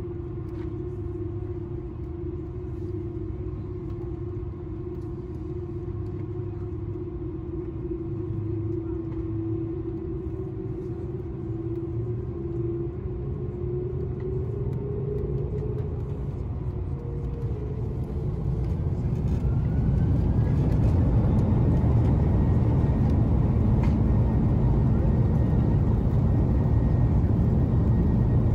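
Airbus A330-200 jet engines heard from inside the cabin, a steady low rumble with a held tone. About two-thirds of the way in the engines spool up with a short rising whine, and the rumble grows louder and stays there, as when thrust is applied for the takeoff roll.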